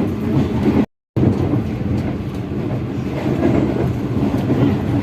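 Passenger train running along the track: a steady, loud rumble of wheels and carriage with faint clicks. It cuts out for a moment about a second in.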